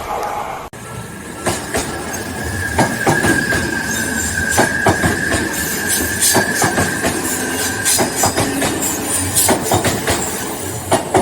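A train running on rails, with a steady high squeal lasting several seconds and a scatter of sharp clicks from the wheels over rail joints. There is a brief break just under a second in.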